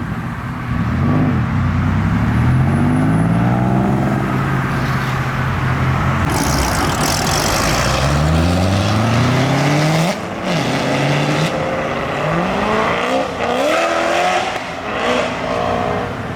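Motor vehicle engines accelerating hard. The pitch climbs, drops back and climbs again several times, as through gear changes, with a steep rise just before a sudden drop about ten seconds in.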